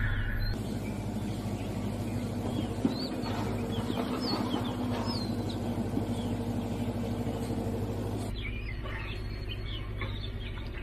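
Small birds chirping in short repeated calls over a steady low hum.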